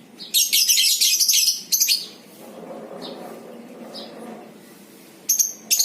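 Lovebirds giving their fast, shrill chattering 'ngekek' trill: one long burst of over a second, a short one right after, then a few faint chirps and another burst near the end.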